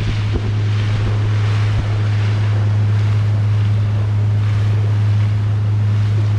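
Boat motor running at a steady speed with a constant low hum, over the rush of water and wind on the microphone.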